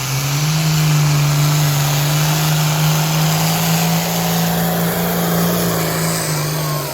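Pulling tractor's engine running loud at full throttle during a pull, holding a steady high note over a heavy roar, then easing off slightly near the end.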